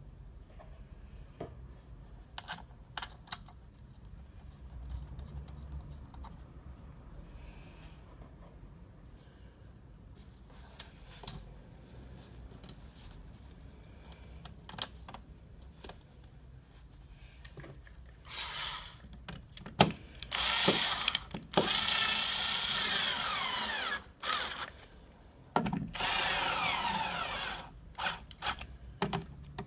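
A power drill-driver runs in several bursts of a few seconds each in the second half, its motor whine rising and falling, as it drives fasteners during the fuel filter job. Before that come scattered light clicks and knocks of parts and tools being handled.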